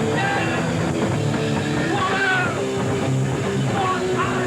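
Hardcore punk band playing live: distorted electric guitars, bass and drums.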